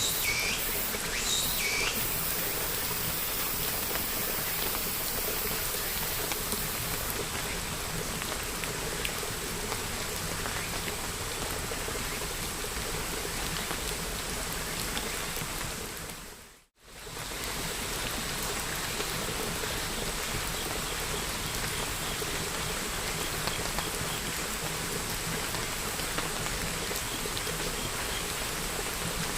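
Steady rain falling, an even hiss of drops, with a couple of short high chirps in the first two seconds. About halfway through, the sound fades out to near silence for a moment and comes straight back.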